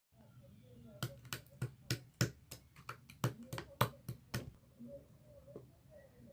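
Slime being squeezed and pressed, making a quick run of about fifteen sharp clicking pops over three and a half seconds, starting about a second in.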